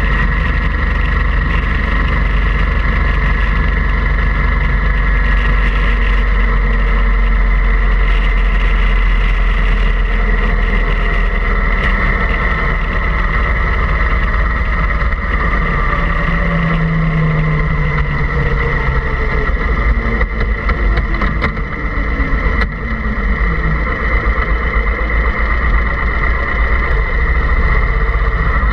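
Steady engine-like drone with a deep rumble and a constant high whine, unbroken throughout.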